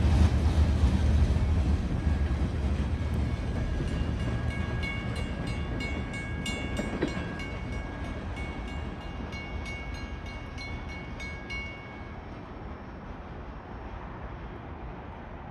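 Metra commuter train moving away, its low rumble fading steadily. From about two seconds in to about twelve, a few thin high ringing tones and a regular run of sharp ticks ride over it, then stop.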